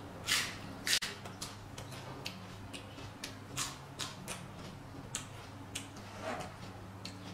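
Close-miked chewing of a mouthful of Cambodian chopped fish paste: irregular wet mouth clicks and smacks, about two or three a second, the loudest in the first second, over a faint steady low hum.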